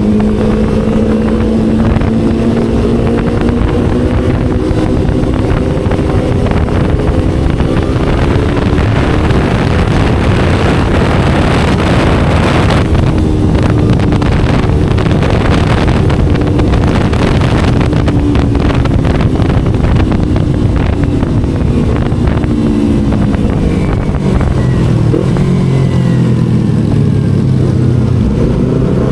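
Motorcycle engine through a loud aftermarket racing exhaust while riding, its pitch rising and falling with the throttle. Wind noise on the microphone in the middle stretch, and the engine note drops lower near the end.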